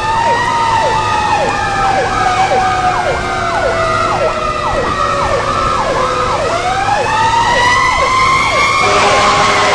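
Emergency vehicle sirens sounding together: one with a fast yelp, sweeping up and down about twice a second, over a slower wail that falls and then rises again about six seconds in. Near the end a steady, horn-like chord of several tones comes in.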